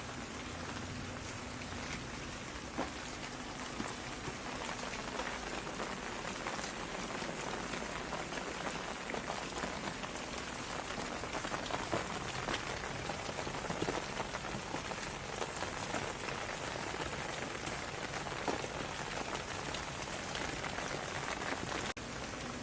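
Steady rain falling on a surface: an even hiss with many separate drop hits ticking through it.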